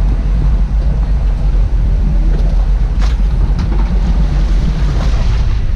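Fishing boat under way: a steady low engine drone with wind buffeting the microphone and the rush of water. A few faint knocks come about halfway through and near the end.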